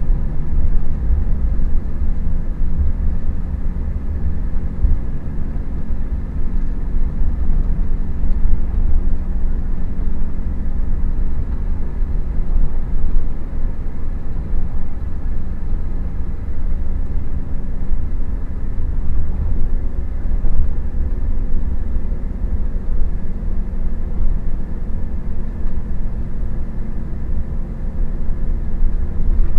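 Scania K400IB coach's straight-six diesel engine running steadily: a continuous deep rumble with faint steady tones above it.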